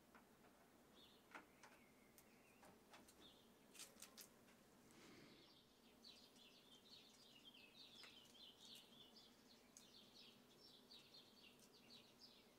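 Near silence, with faint bird chirping in the background through the second half and a few faint ticks.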